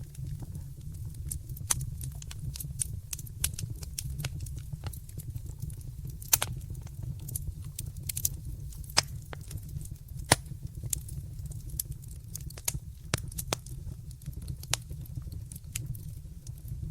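Wood fire in a fireplace crackling: irregular sharp pops and snaps, a few louder ones about six and ten seconds in, over a steady low rumble of the flames.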